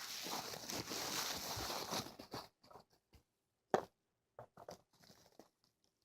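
Close-up ear-cleaning ASMR scratching: about two seconds of dense, continuous scratching and rustling, then scattered soft scrapes and clicks with quiet gaps between them, one sharper click near the middle.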